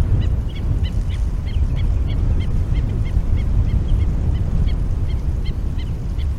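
A shorebird calling a short sharp note over and over, about three times a second, over a steady low rumble.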